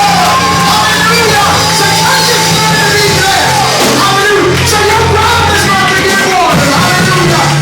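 Loud worship music: sustained low chords with bass notes changing every second or two, and voices singing and calling out over them.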